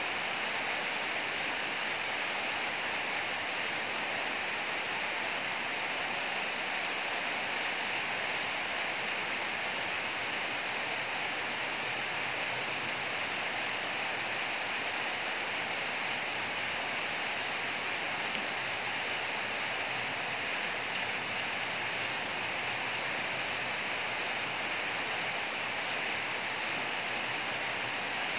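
Heavy rain falling as a steady, unbroken hiss.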